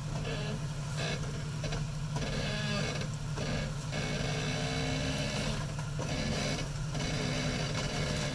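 Jeep Wrangler Rubicon's engine idling with a steady low hum as the Jeep crawls slowly down off a rock ledge.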